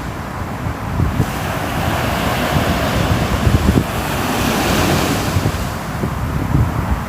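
Ocean waves breaking on a shore, a steady wash of surf that swells to a crest about two-thirds of the way through, with a low rumble underneath.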